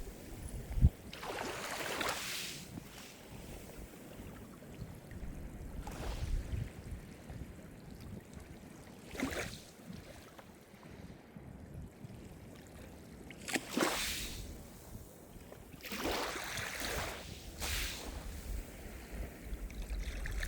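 Calm Mediterranean surf: small waves break and wash up the shore in surges every few seconds, over a low steady rumble. A brief low thump comes about a second in.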